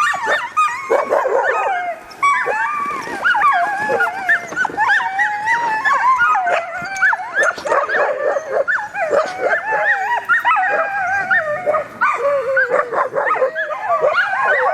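A yard of Alaskan husky sled dogs howling and yipping together, many voices overlapping and wavering up and down in pitch without a break.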